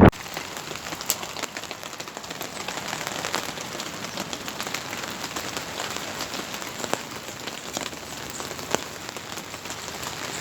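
Steady rain falling, with scattered sharp hits of single drops.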